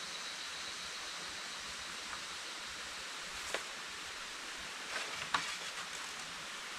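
Steady hiss of outdoor forest ambience, with three short sharp knocks, two of them close together near the end.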